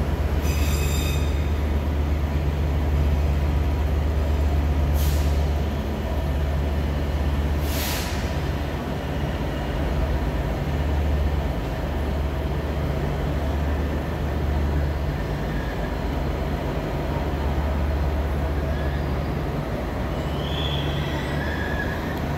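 Trains at a station platform: a steady low rumble throughout, two short hisses of air about five and eight seconds in, and a brief high squeal near the end as a Northern multiple-unit passenger train draws in.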